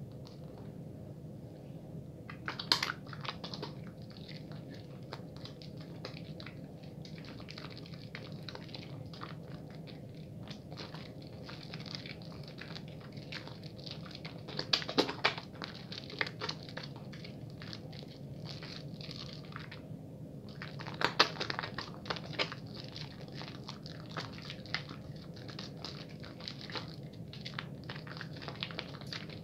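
Wet bar soap being lathered: a continuous fine crackling squish of foam, with louder bunches of squelches about three seconds in, around halfway, and about two-thirds of the way through.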